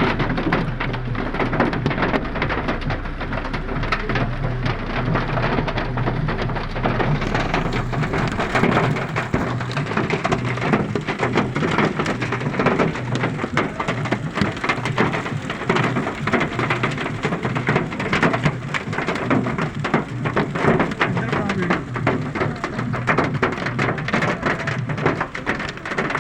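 Hailstones striking a car: a dense, steady clatter of countless small impacts.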